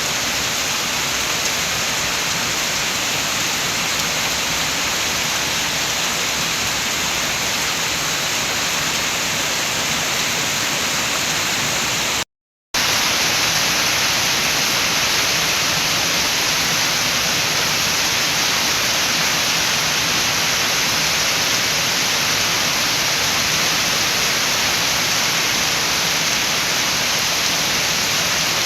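Steady rain with wind, a dense even hiss. About halfway through it drops to silence for a split second, then carries on slightly brighter.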